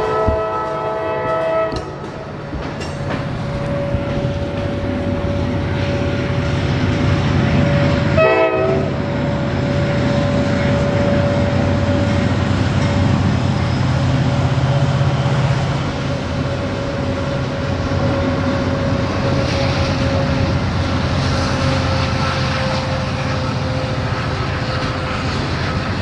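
Freight trains rolling past: a locomotive air horn chord sounds and cuts off about two seconds in, with a short blast and a clack around eight seconds in. Underneath runs the steady rumble of freight cars on the rails, with a long thin steady tone that sags slightly near the end.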